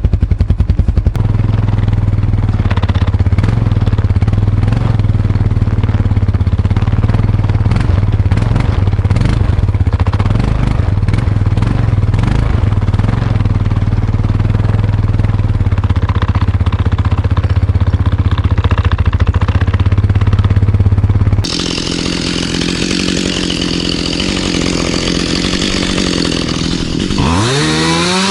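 Kawasaki ATV engine running steadily under load for about twenty seconds. It then gives way abruptly to a Stihl MS 211 C two-stroke chainsaw running, revving up and down near the end.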